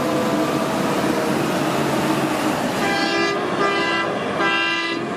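Steady hiss of water rinsing mud off a toy truck, with three short horn toots about three seconds in.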